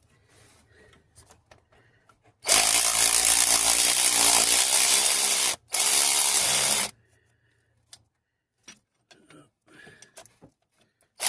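Cordless power tool motor running in two bursts, about three seconds and then about a second after a brief stop, turning a socket on an engine ground bolt.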